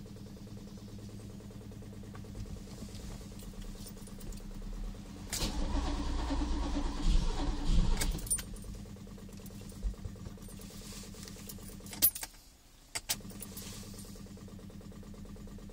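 A 308's engine being cranked after three months unused: about five seconds in, a loud burst of starter cranking and engine noise lasts about three seconds, then falls away. Two sharp clicks follow near the end, over a steady low hum.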